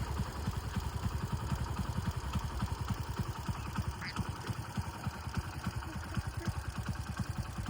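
A flock of waterfowl calling together, heard over a rapid low throbbing of about eight pulses a second.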